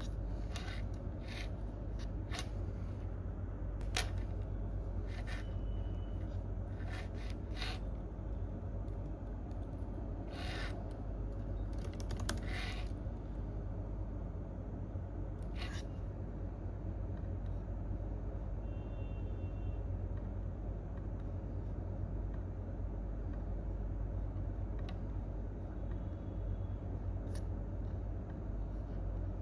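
Computer keyboard keystrokes and clicks, sparse and in small clusters, over a steady low room hum. The clicks come mostly in the first half and thin out to a single one near the end.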